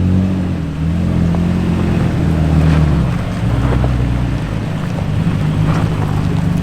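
Off-road truck engine running under load on a climb, its pitch rising and falling as the throttle is worked, then holding steadier.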